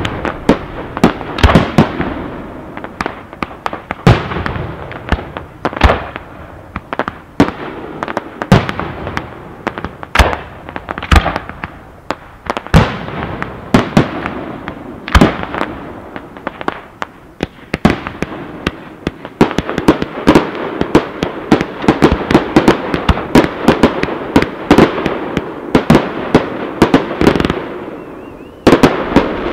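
Fireworks display: aerial shells and ground-level fountains going off in quick succession, a dense run of sharp bangs over a steady crackle. The bangs come closer together in the second half, into an almost unbroken barrage.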